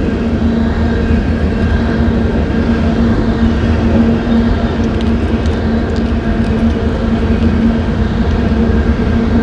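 A train running past: a steady rumble with a constant low drone, unchanging throughout.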